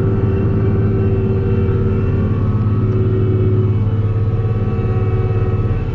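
Tractor engine running steadily under load, with a steady pitched hydraulic whine over it. The whine is the sign of the hydraulic system losing oil through a leaking case drain.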